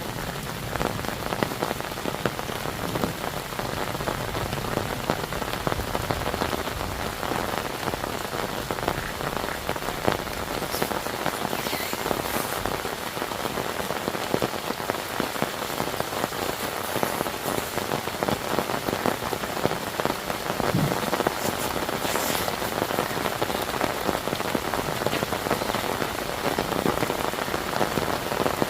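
Heavy rain falling: a dense, steady patter of raindrops.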